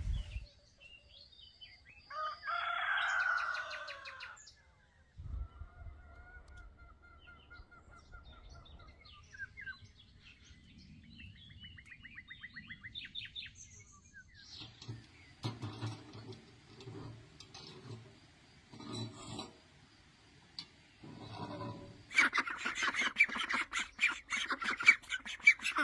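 Farmyard poultry calling, with small birds chirping in between. There is a louder burst of calls about two to four seconds in, and a louder, rapid run of calls near the end.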